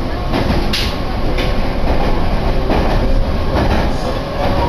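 Meitetsu Takehana Line electric train running, heard from inside the carriage: a steady rumble of wheels on rail with a few sharp clicks from the rail joints.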